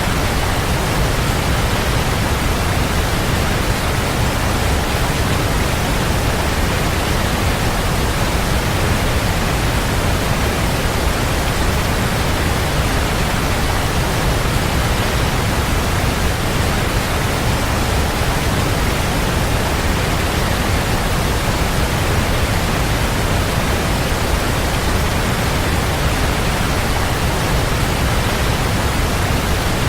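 Waterfall: a steady, even rush of falling water with a strong low rumble, unchanging throughout.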